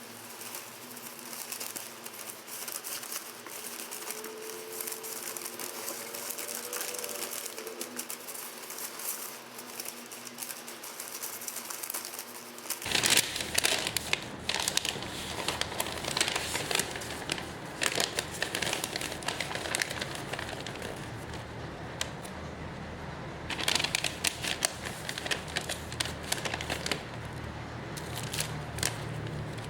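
Plastic packaging crinkling and rustling as it is handled, over a steady hiss. The crackling turns sharper and louder after about 13 seconds.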